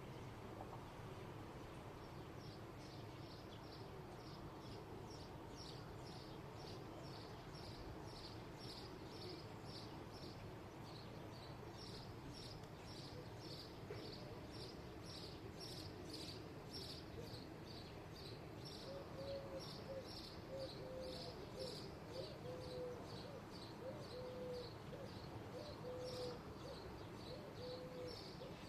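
A small bird chirping over and over, about three short high chirps a second, over a steady low background hum of everyday outdoor noise. From about two-thirds of the way in, a second sound joins: short low notes about once a second.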